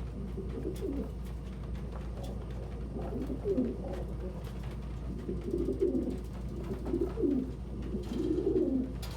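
Domestic pigeons cooing, a string of low warbling coos that comes thicker from about three seconds in, over a steady low hum.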